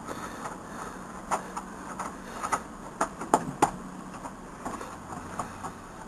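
Scattered light clicks and knocks, a few sharper ones about halfway through, over a faint steady low hum.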